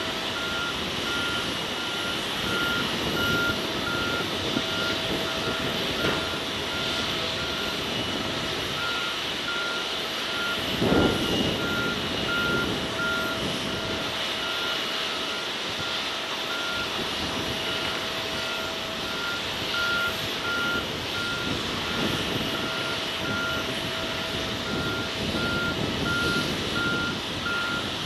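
Airport aircraft tow tractor sounding its warning beeper, about two high beeps a second, over the tug's running engine noise. A brief louder whoosh about eleven seconds in.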